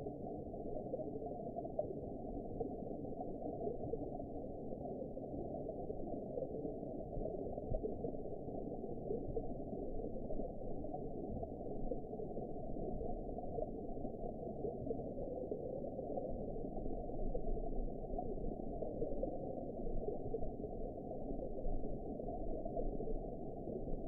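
Underwater ambience: a steady, muffled rumbling wash of noise with nothing above about 1 kHz, unchanging throughout.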